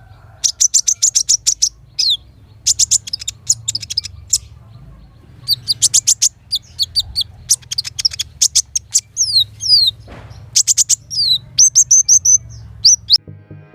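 Sunbird singing a rapid run of high, thin chirps and short trills, some notes sliding down in pitch, over a low steady hum.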